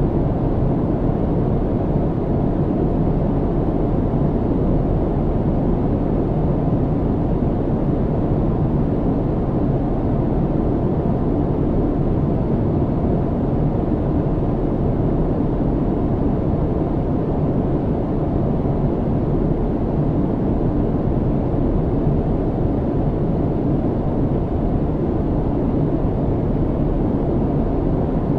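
Airliner cabin noise in flight: a steady, low rumble and rush of engines and airflow, with no changes.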